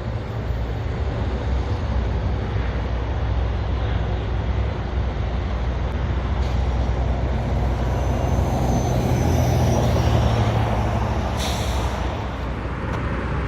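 Heavy diesel construction machinery (trucks and cranes) running with a steady low engine rumble that swells a little midway. A short hiss of air cuts through near the end.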